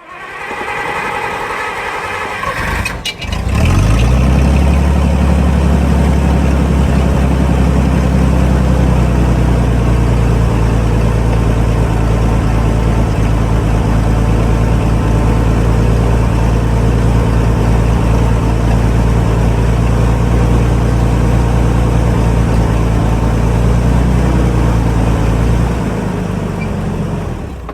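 Clark forklift's engine being cranked by the starter, catching about three seconds in and then running steadily, before it winds down and stops near the end.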